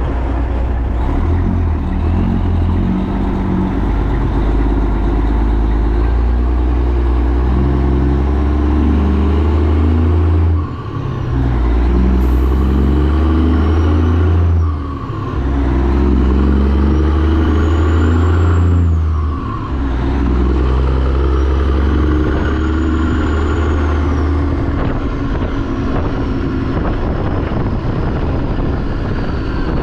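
Heavy truck's diesel engine pulling away through the gears: the engine note climbs, then drops briefly at each of three gear changes before settling into a steady run. A faint high whistle rises and falls with the engine.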